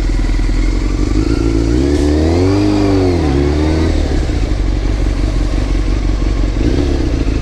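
Motorcycle engine running under heavy wind rush on the microphone. About two seconds in, the engine's pitch rises and then falls again as the bike speeds up and slows.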